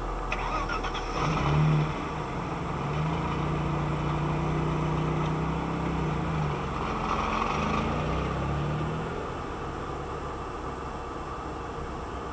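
Car engine heard from inside a car: its pitch rises about a second in, holds steady for a few seconds, falls, then briefly rises and falls again, over a steady low hum.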